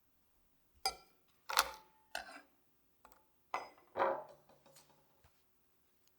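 Kitchenware clinking and knocking: about eight separate hard knocks of bowls or utensils being set down and handled, some ringing briefly like glass or ceramic.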